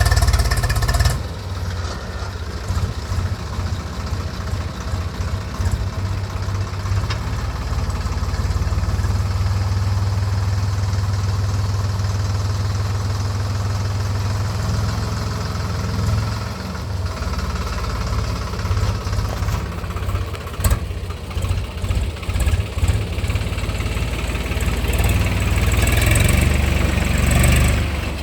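Swaraj 834 XM tractor's diesel engine running steadily with a low, continuous note. It dips a couple of times midway and grows louder near the end.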